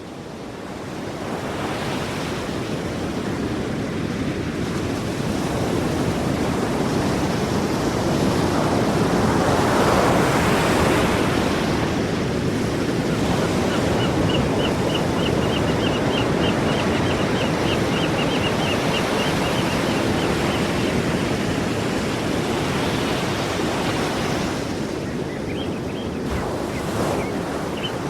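Sea waves surging and washing ashore: a steady rushing surf that swells in over the first couple of seconds and is loudest about ten seconds in.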